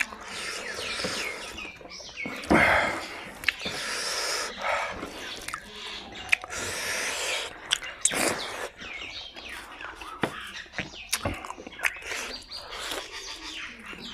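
Close-up chewing and lip-smacking of pork and rice eaten by hand: wet, irregular mouth clicks and squelches. Near the end comes gnawing and sucking on a piece of pork on the bone.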